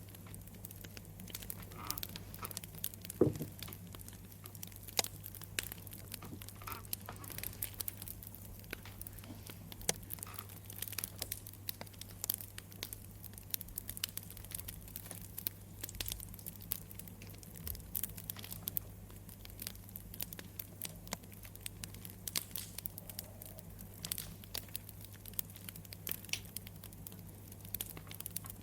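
Wood fire crackling: irregular sharp pops and snaps over a low steady hum, with one louder pop about three seconds in.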